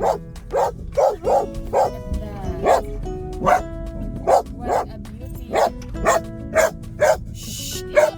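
A dog barking over and over, about one or two barks a second, over background music.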